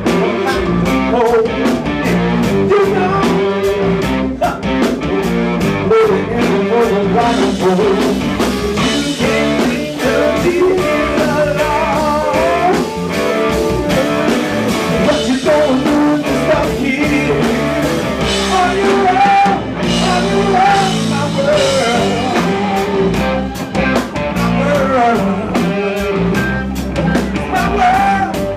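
Live rock band playing a bluesy rock number with guitar and drums keeping a steady beat, and a voice singing over it.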